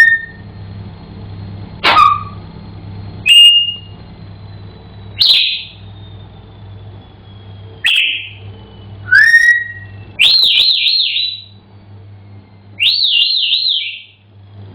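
African grey parrot whistling: a series of short, sharp whistles every second or two, then two longer warbling whistles near the end.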